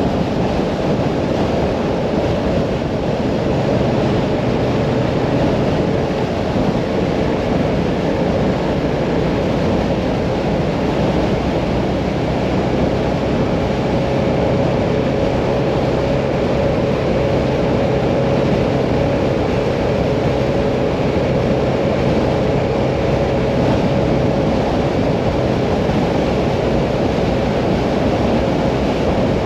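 Mirage 650 motorcycle engine running at a steady cruising speed, under heavy wind rush on the microphone.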